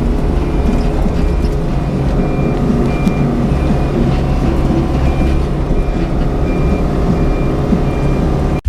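Excavator diesel engine running steadily under work while its travel alarm beeps over it in short repeated tones, the sound cutting off abruptly near the end.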